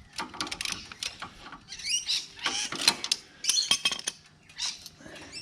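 Small parts being handled and fitted by hand: a run of irregular clicks and light knocks, with a few short high squeaks.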